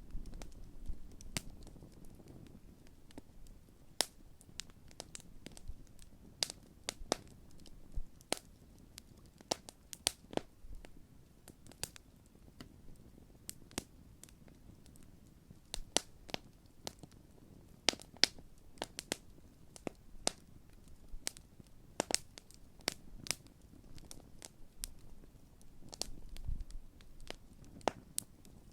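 Large wood campfire crackling: irregular sharp pops and snaps, several each second, over a low steady rush of burning.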